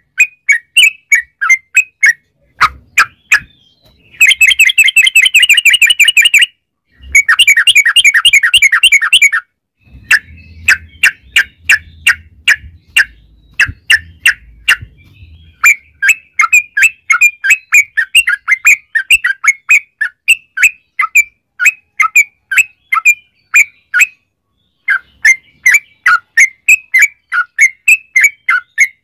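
Yellow-vented bulbul (trucuk) singing: quick strings of short chirping notes, broken by two long, fast rolling trills about four and seven seconds in.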